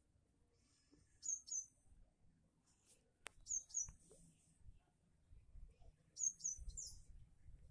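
A small bird chirping: short high notes in twos and threes, repeated every two to three seconds, the last group the loudest.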